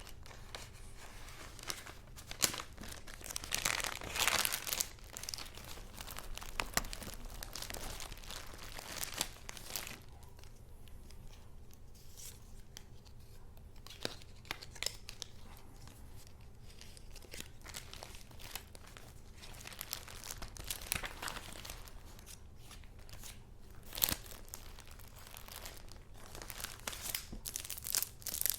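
Paper being handled: rustling, crinkling and tearing in irregular bursts, loudest a few seconds in and again near the end, with a quieter stretch in the middle and one sharp click about two-thirds of the way through.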